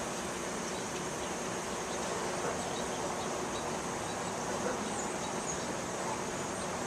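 Steady outdoor ambience after rain: a continuous high insect drone over an even background hiss, with a few faint high chirps.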